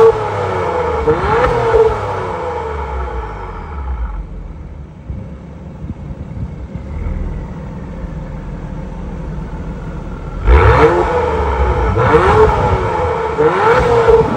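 2023 Acura TLX Type S's turbocharged V6 revved while parked, heard through its quad exhaust: quick throttle blips at the start, a few seconds of idle, then a run of sharp revs near the end, reaching about 5,000 rpm.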